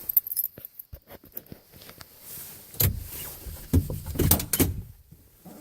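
Light clicking and jingling of the ignition keys once the truck's engine is shut off, then a series of loud thumps and clatter from its door being opened and shut.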